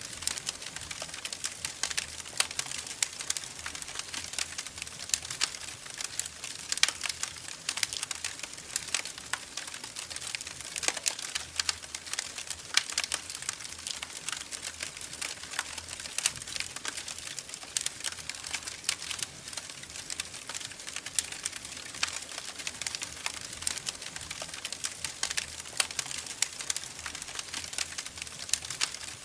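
Wood fire crackling in a fireplace: dense, irregular pops and snaps over a soft steady hiss.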